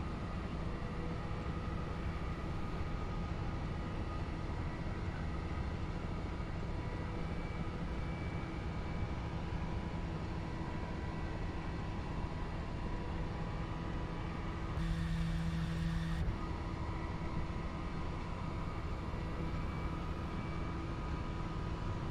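Twin radial piston engines of a DC-3 airliner droning steadily in flight: a low hum with a few steady tones over a wash of noise. About fifteen seconds in, the sound turns briefly a little louder and brighter for a second or so.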